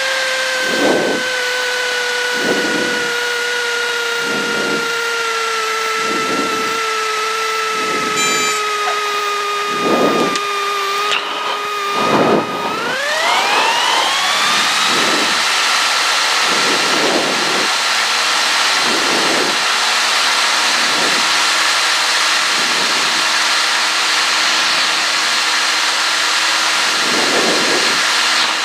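Cessna 152's four-cylinder Lycoming engine heard from the cockpit, throttled back with its note sinking slowly, then a little over halfway through the throttle is opened and the note rises quickly to full power and holds steady: the go-around to take off again in a touch-and-go.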